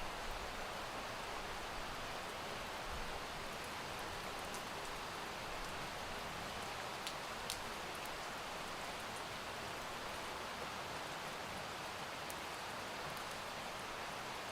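Steady rain falling, an even patter with a couple of sharper ticks about halfway through.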